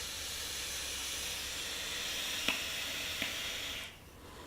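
Vaping for a big cloud: a steady hiss lasting about four seconds, with two small crackles partway through, that stops suddenly near the end.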